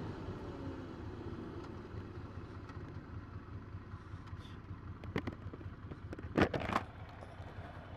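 Ducati Monster 797's air-cooled L-twin engine running with a low, steady rumble. Short sharp clicks come about five seconds in and again around six and a half seconds in, the later ones the loudest.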